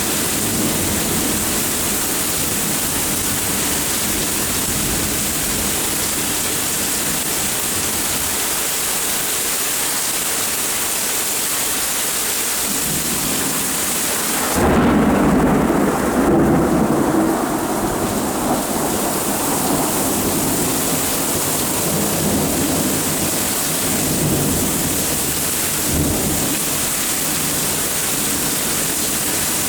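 Steady rain falling through a thunderstorm. About halfway through, a clap of thunder breaks in suddenly and rumbles for several seconds before dying back into the rain.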